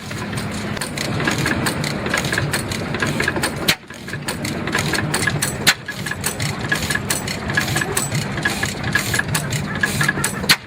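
Vintage Scherer & Gross stationary engine running, with a rapid stream of sharp mechanical clicks over its steady running noise. The sound breaks off briefly twice, about four and six seconds in.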